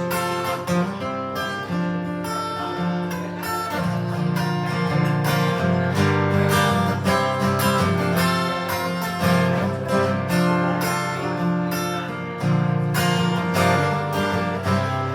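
Acoustic guitar strummed in a steady rhythm, playing an instrumental passage between the sung lines of a live ballad.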